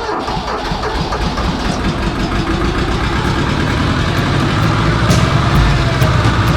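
Older diesel tractor engine on a cold start after glow-plug preheating: cranking in quick low pulses at first, then settling into a steadier, running sound.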